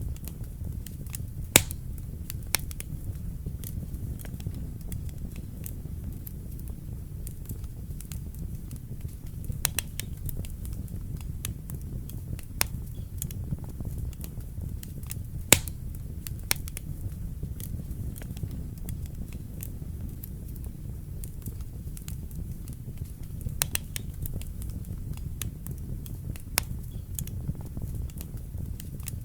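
Wood fire burning in a fireplace: a steady low rumble of the flames with irregular sharp crackles and pops, two louder pops about 1.5 s and 15.5 s in.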